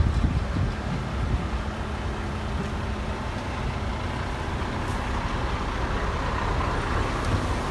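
Heavy diesel earthmoving machinery running: a steady low engine rumble, with a hiss that grows a little in the later seconds.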